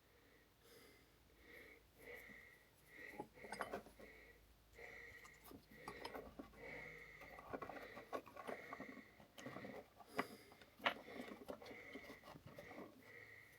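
Faint scattered clicks and light knocks of hands working on small parts, the sharpest about three and a half and eleven seconds in, over a faint high chirp repeating about every half second.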